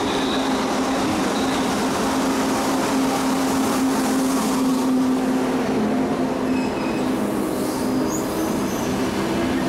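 Frecciarossa ETR 500 high-speed train rolling slowly into the platform: a steady low hum over the rumble of the carriages, with faint high-pitched wheel or brake squeals near the end.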